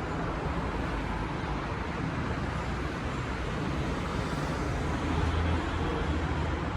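Steady outdoor rumble with a low-pitched hum, swelling slightly about five seconds in.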